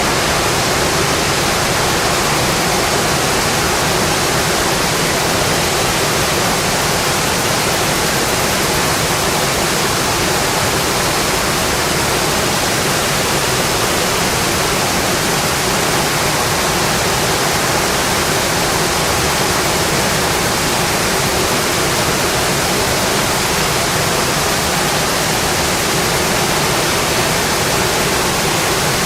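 Rain falling steadily on a metal roof: a dense, even hiss that does not let up.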